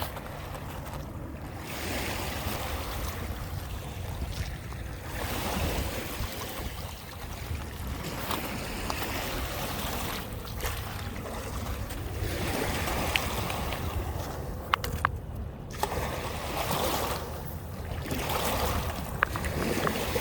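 Small Lake Michigan waves washing onto the beach, swelling and ebbing every few seconds, with wind on the microphone. A few short clicks sound near the end.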